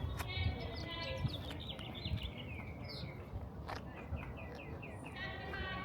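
Small birds chirping in quick repeated strings over a low background rumble of an outdoor crowd.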